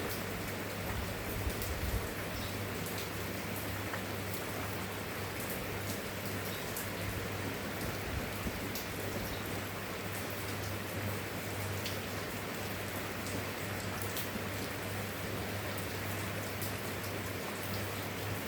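Steady rain falling, a constant hiss with individual drops pattering, over a steady low hum.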